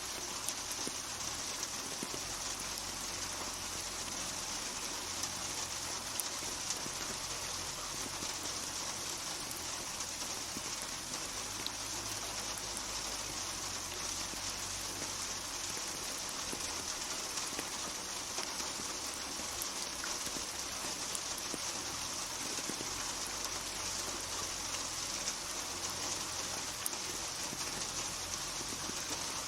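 Steady rainfall: an even hiss of rain with scattered faint drop ticks, starting abruptly at full level.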